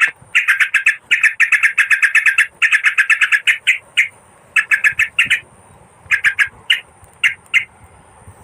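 Merbah kapur bulbul lure call: fast chattering runs of short, harsh repeated notes, about eight a second, in several bursts separated by brief pauses, the runs getting shorter and sparser toward the end.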